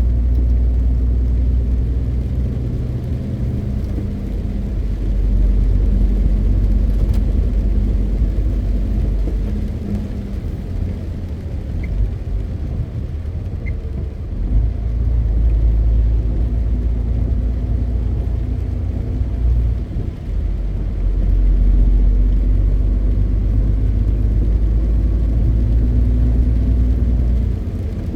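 MAN TGX 520 truck under way: its 12.4-litre inline-six diesel drones low with road rumble, swelling and easing several times as the load and engine speed change.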